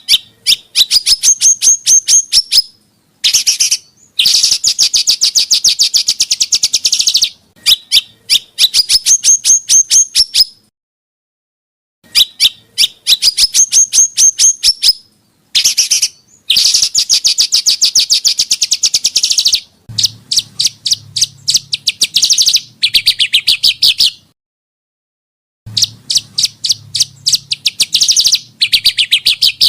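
Small songbird calls from a masteran training recording: rapid-fire trains of sharp chirps, about eight a second, in phrases of two to three seconds broken by short pauses. These are the harsh 'tembakan' (shot) calls.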